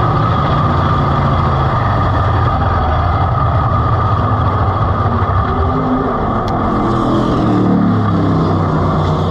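Race car engine running hard, held at steady high revs.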